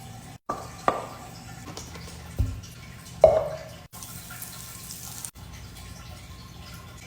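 Kitchen clatter: a few clinks and knocks of utensils and dishes. The loudest is a ringing clink about three seconds in, followed by a brief hiss.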